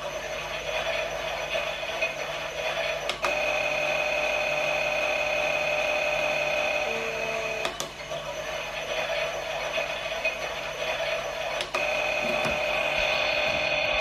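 Battery-powered toy Miele washing machine running, its small motor whirring steadily with a high whine. A sharp click comes about every four seconds, and the whirr changes slightly after each one.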